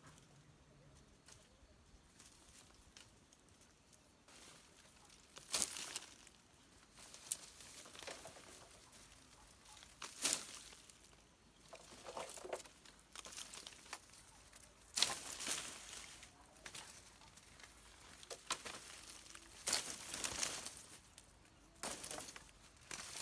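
Irregular rustling and crackling, with about eight short, sharp, louder bursts a few seconds apart from about five seconds in.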